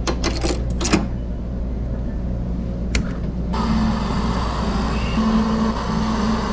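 Steady low vehicle drone, as heard riding inside a car, with a few sharp clicks in the first second. The sound changes abruptly about three and a half seconds in.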